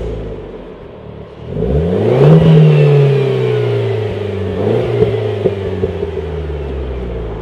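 Renaultsport Clio 200 (Clio 4 RS) 1.6-litre turbo four-cylinder through a Supersprint aftermarket exhaust: the revs rise quickly to a peak, fall away slowly, blip once more with a few sharp pops, then settle to a steady note.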